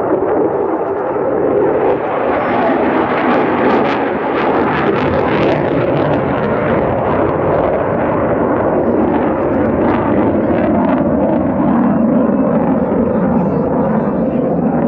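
F-16 Fighting Falcon's General Electric F110 afterburning turbofan passing in a flyby: a loud, continuous rushing jet noise whose pitch falls in the second half as the jet moves away.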